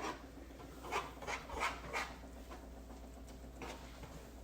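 Faint, scattered rubbing and handling noises: several short soft scrapes, about one a second, over a low steady hum.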